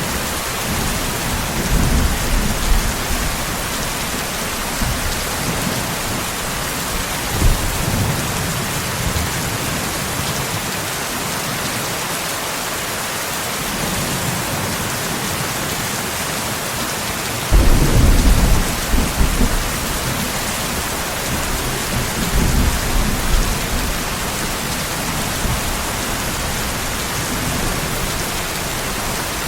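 Steady rain with rolling thunder. Low rumbles swell and fade several times, and the loudest starts suddenly a little past halfway and rolls on for a few seconds.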